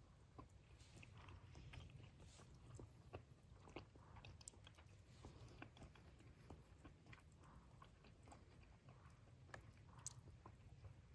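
Faint chewing and crunching as someone eats, with scattered small clicks throughout.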